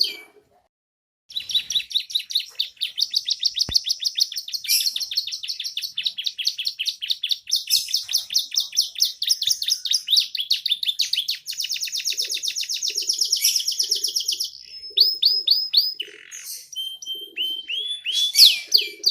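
Young domestic canary singing, starting about a second in with long, rapid high trills and chattering phrases, its song filled with learned bar-winged prinia (ciblek) phrases.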